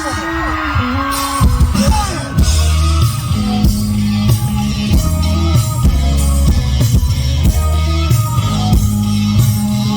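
Live rock band playing: electric guitar, bass and drums, with the full band settling into a steady beat about two seconds in.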